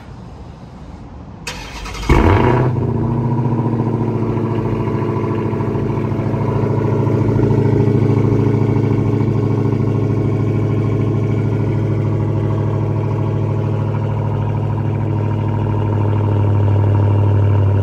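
2022 Dodge Challenger Hellcat Widebody's supercharged 6.2-litre HEMI V8, exhaust run with the mufflers deleted, cold-starting about two seconds in with a sudden loud burst. It then settles into a loud, steady cold idle.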